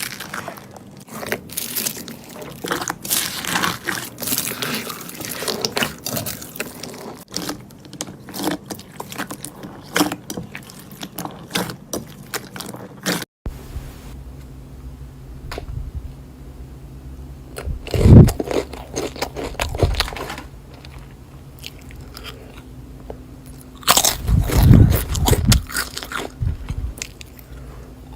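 Slime being squeezed and pressed by hand, crackling and crunching in quick small pops. About halfway in, after a sudden cut, it turns quieter over a low steady hum, broken by a few louder squishes.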